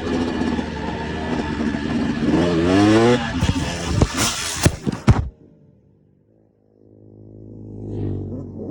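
Motocross bike engine running and revving up, with a few sharp knocks. The sound cuts off abruptly about five seconds in, and after a short silence a fainter engine note builds up near the end.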